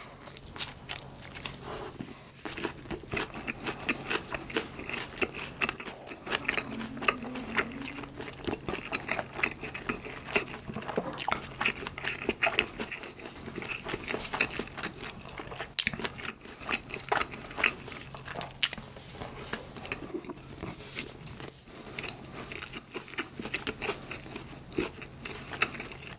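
Close-miked chewing and biting of a soft sausage bread roll topped with corn salad, with many small irregular mouth clicks throughout.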